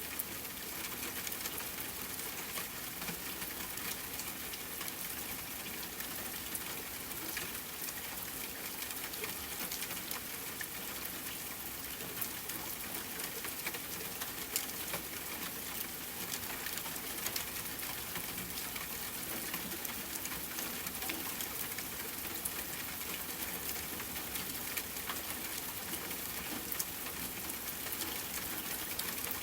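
Steady rain hiss with scattered small crackles and pops from a wood fire.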